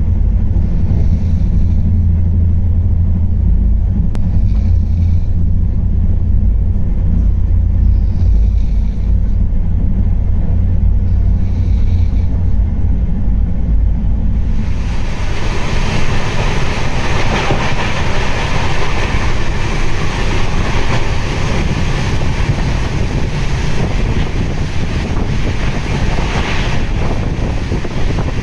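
Passenger train running at speed, heard from on board. At first there is a steady low rumble inside the closed coach, with a faint clatter about every two seconds. About halfway through, it switches to the louder, fuller rush of wind and wheel noise at an open coach doorway.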